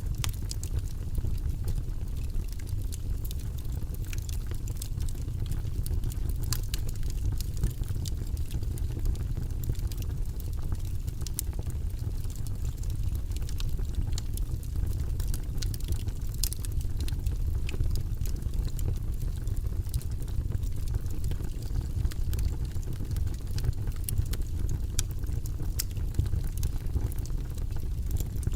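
Wood logs burning in a fireplace: a steady low sound of the flames with frequent, irregular sharp crackles and pops.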